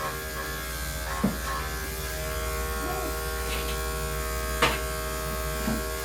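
Electric dog grooming clippers running with a steady buzz as they clip a dog's coat, with two short clicks.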